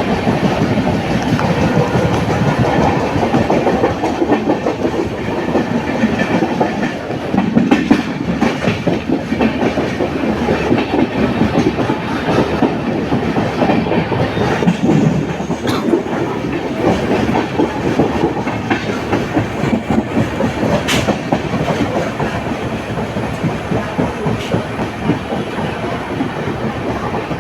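Mandovi Express LHB passenger coaches running at speed: a steady rumble of wheels on the track with clickety-clack over the rail joints and a few sharp clicks.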